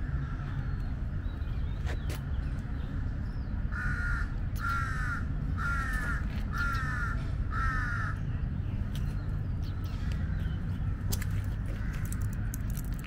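A bird calling five times in a row, about once a second, over a steady low background rumble.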